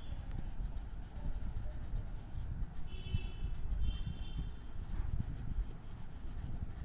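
Colouring medium rubbing back and forth on paper, a continuous scratchy rubbing with a heavy low rumble. Two short high chirps come about three and four seconds in.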